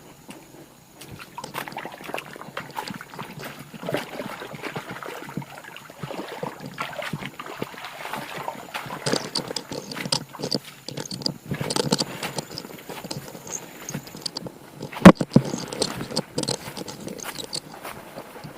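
Footsteps and rustling through forest undergrowth: irregular crunching and snapping of leaves and twigs underfoot, with one sharp knock about fifteen seconds in.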